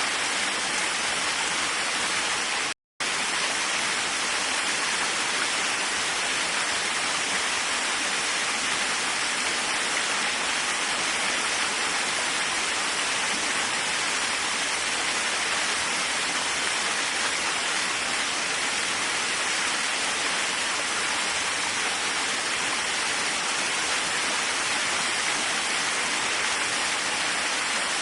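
Waterfall: a steady, unbroken rush of falling water, cutting out completely for a split second about three seconds in.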